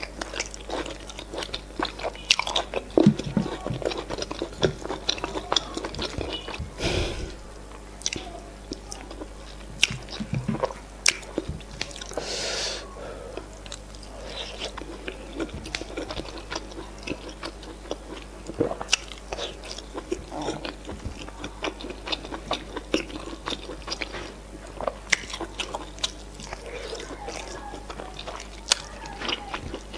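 Close-miked eating: chewing semolina fufu and efo riro (spinach stew) with meat, with many sharp wet mouth clicks and smacks at an irregular pace and a couple of short breathy hisses.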